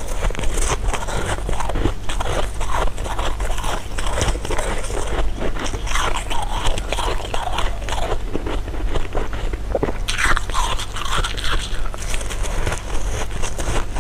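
Close-miked eating: crisp, brittle crystal candy being bitten and chewed, a dense, irregular run of crunches and crackles.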